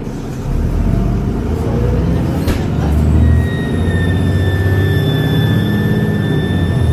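Transbus Trident double-decker bus's diesel engine pulling away under load, with a steady high turbo whistle coming in about three seconds in and running on. A single sharp click sounds a little before the whistle starts.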